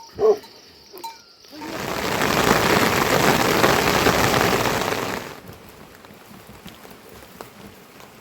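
One short bleat, then a loud, even rush of heavy rain that swells in over about a second, holds, and stops suddenly about five seconds in.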